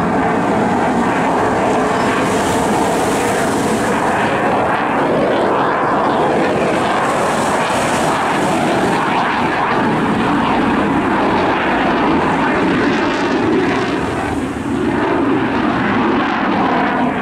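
Eurofighter Typhoon FGR4 jet with its twin EJ200 turbofan engines roaring steadily during a display flight, with a slight dip in loudness near the end.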